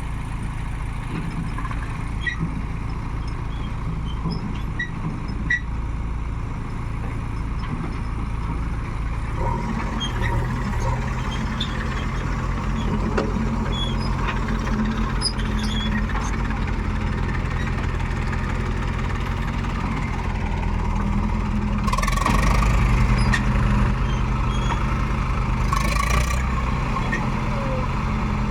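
Heavy diesel engine of a working machine running steadily. It picks up and grows louder about a third of the way in, with two short hissing bursts near the end.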